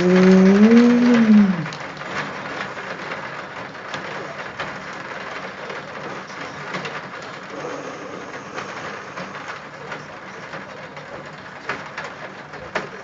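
Hail and rain falling, a steady hiss with many scattered sharp ticks of hailstones striking. At the start a long held vocal sound rises and falls briefly before it stops.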